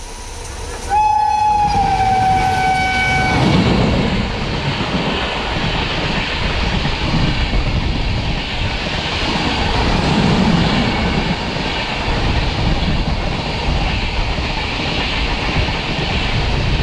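An electric locomotive's air horn sounds one long blast about a second in, its pitch dipping slightly as it passes, then the Humsafar Express's coaches rush past at speed on the next track with a steady rumble and clatter of wheels on rails.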